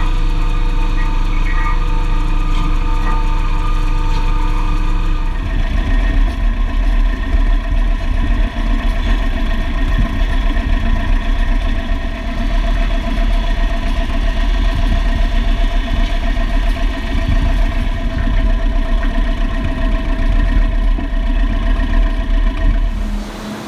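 Engine-driven hop harvesting machinery running steadily, its sound changing about five seconds in and cutting off near the end.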